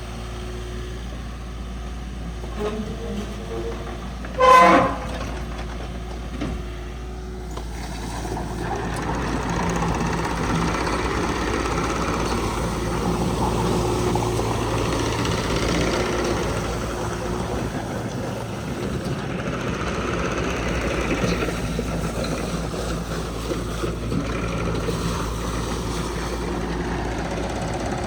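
Kubota U50-5 mini excavator's diesel engine running steadily, with one short toot of the horn about four seconds in. From about eight seconds the engine runs louder and busier, as when the machine is worked.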